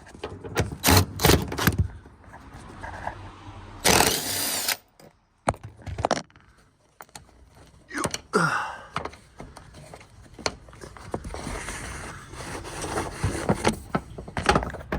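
Thunks, knocks and clatter of car interior parts being handled and pulled out, with a short burst of hiss about four seconds in.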